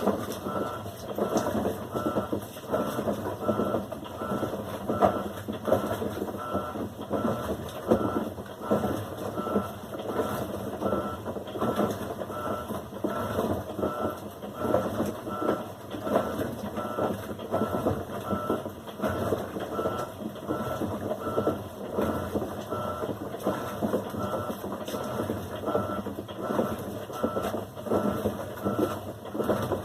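Electrolux LAC16 top-loading washing machine running its wash cycle: water churning and the agitator working, with a short tone pulsing at a steady rhythm throughout.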